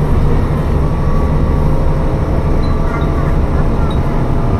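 Tsugaru Railway diesel railcar running along the line: a steady low rumble of engine and wheels on rails, with no sudden events.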